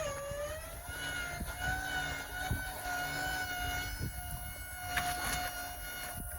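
Hydraulic boat lift's pump motor starting with a click and running with a steady whine, its pitch dipping briefly and settling in the first second, as the boat is lowered.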